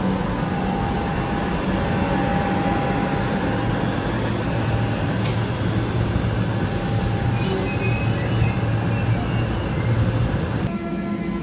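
Electric train running along the track: a steady rumble with a low electric hum and a few higher steady tones. The sound changes abruptly near the end.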